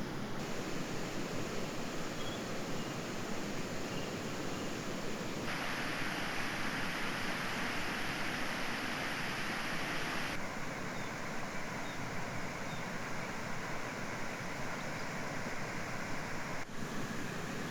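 Steady outdoor background hiss with no distinct events, changing abruptly in tone about half a second in, then about 5, 10 and 17 seconds in; brightest between about 5 and 10 seconds.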